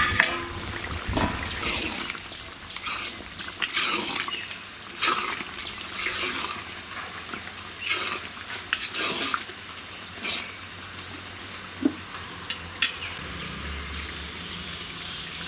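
Chicken curry being stirred in a metal pot: irregular scrapes and clinks of a spoon against the pot over a soft hiss of the simmering curry.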